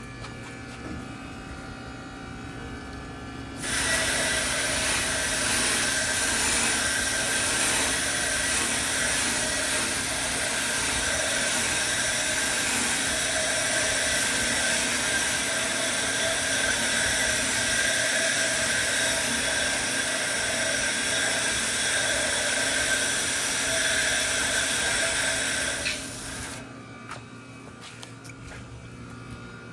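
A cleaning tool running on a heat pump's outdoor unit in one long, steady, loud hissing blast, switched on about four seconds in and cut off abruptly near the end, over a low steady hum.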